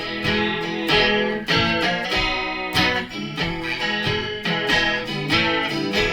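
Blues guitar playing an instrumental passage between sung lines, plucked notes and chords over a steady beat.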